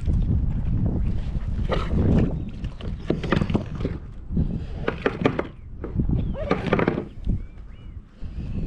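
Wind buffeting the microphone on a kayak, with scattered knocks and splashes from the boat and fishing gear being handled. A few short bird chirps come in near the end.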